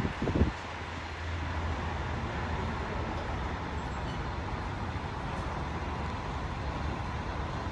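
Steady Manhattan street traffic noise with a low engine rumble. There are two or three low thumps of wind buffeting the microphone in the first half second.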